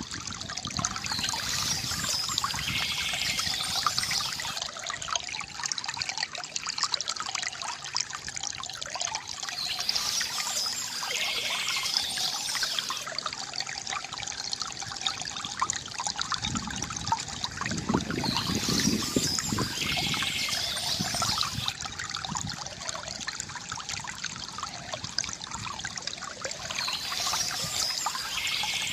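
Stream water trickling and gurgling steadily, with a brighter splashing patch that comes back about every eight or nine seconds, and a fuller low gurgle a little past halfway.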